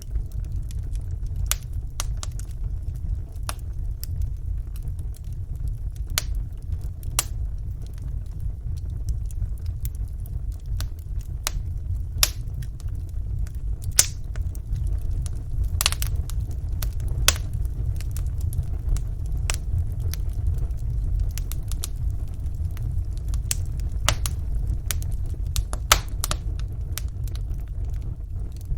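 Wood fire burning in a fireplace: a steady low roar of flames with sharp, irregular crackles and pops from the burning logs.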